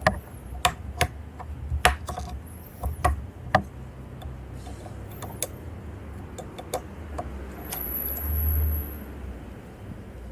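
Hand tools and small metal parts being handled during motorcycle workbench work: a series of sharp clicks and knocks, most of them in the first four seconds, then scattered lighter ticks. A brief high thin whine sounds about eight seconds in.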